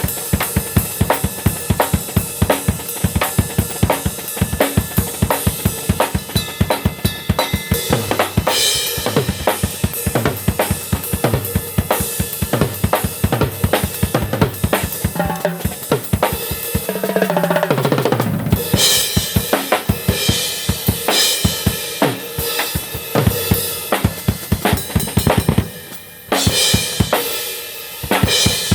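Drum kit played in a fast, steady beat of bass drum and snare, with cymbals joining about eight seconds in.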